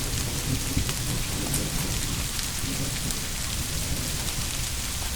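Steady heavy rain with a low rumble of distant thunder, the rumble strongest in the first second.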